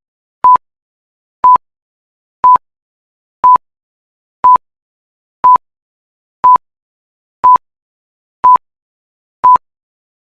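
Electronic countdown timer beeping: ten short beeps, all at the same pitch, one each second, with silence between them.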